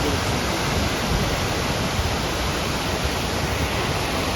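Pykara waterfall: a steady, even rush of falling water.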